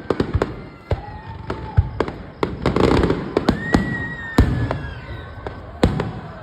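Fireworks going off: a rapid string of bangs and crackling pops, densest about three seconds in, with whistling shells sounding twice.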